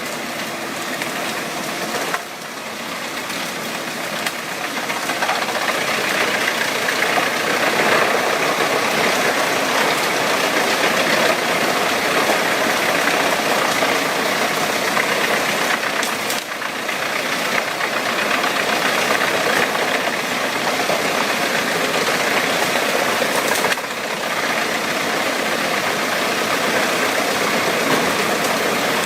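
Wood chipper running with its engine and shredding noise, a loud, dense and steady racket that changes abruptly three times.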